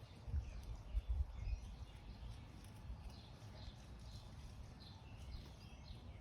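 Songbirds chirping, with short high calls, several falling in pitch, scattered throughout. Underneath runs a low rumble, with a few dull thuds in the first second and a half that are the loudest sounds.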